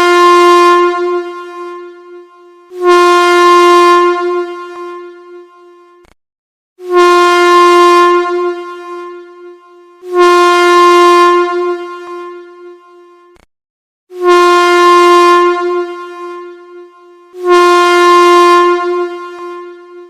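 A train air horn blowing one steady-pitched blast after another, about every three and a half seconds. Each blast starts abruptly at full loudness, holds for about a second, then fades away over the next two seconds before the next one.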